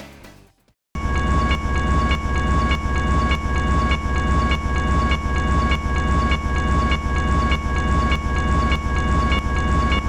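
The tail of a song fades out, then about a second in a train starts up loud: a heavy low rumble with a regular clickety-clack about every half second and a steady high tone held throughout.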